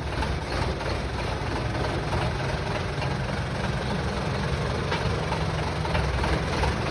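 Dodge M37 army truck's flathead straight-six engine running steadily at low revs, a low rumble.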